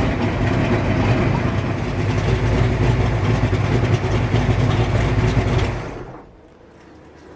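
Kiekhaefer 482 cubic-inch V8 marine race engine idling at about 800 RPM, then shut off about six seconds in.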